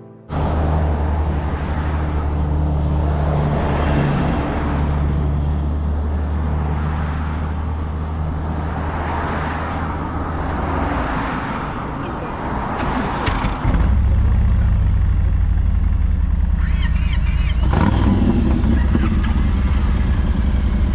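Harley-Davidson Tri Glide's V-twin engine running steadily at road speed, with wind rushing over the microphone in waves. The engine note shifts about two-thirds of the way through.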